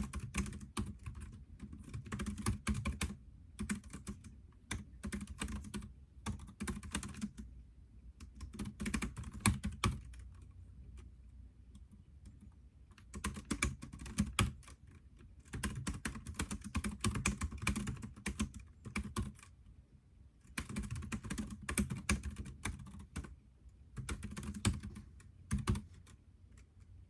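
Typing on a computer keyboard: runs of rapid keystrokes broken by pauses of a second or two, the longest a little after the middle.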